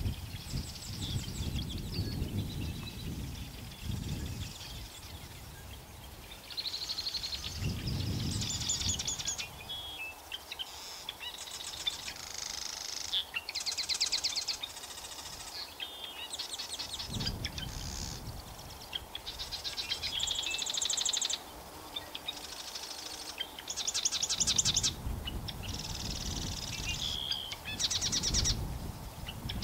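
Birds singing in a long series of short, high trilled phrases, each about a second long, following one another, with intermittent low rumbling underneath.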